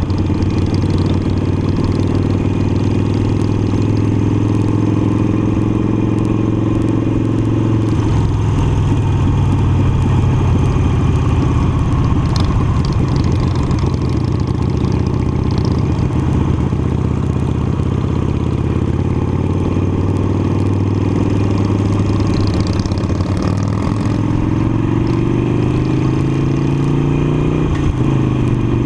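Harley-Davidson Iron 883's air-cooled 883 cc V-twin running under way at a fairly steady pitch. The pitch eases down about eight seconds in, climbs near the end, then drops sharply.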